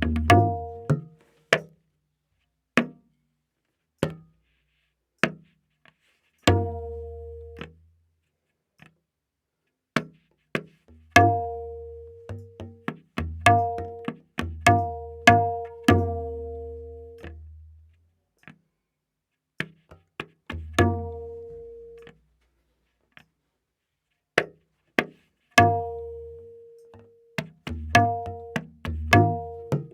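Tabla playing a slow vilambit ektaal theka alone. The dayan, tuned to A#, rings between sparse strokes, with deep bayan strokes underneath and short silences between the phrases.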